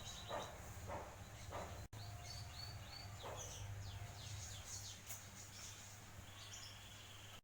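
Small birds chirping in the background, quick repeated high chirps and short falling notes, over a low steady hum.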